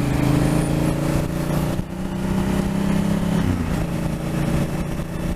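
Twin-cylinder motorcycle engine running under way, with wind rush. The engine note drops about three and a half seconds in, then holds steady.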